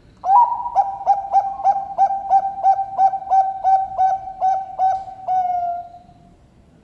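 A Bangkok-bred perkutut (zebra dove) singing: a run of about fifteen quick, clipped cooing notes, about three a second, ending in one longer drawn-out note that fades away.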